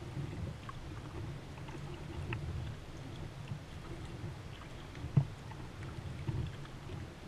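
Kayak being paddled on a lake: a steady low rumble of water around the hull, with faint drips and light splashes and a single knock about five seconds in.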